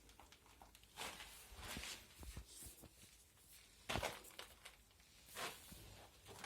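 Faint, irregular footsteps crunching on rubble and debris, about five uneven steps or scuffs.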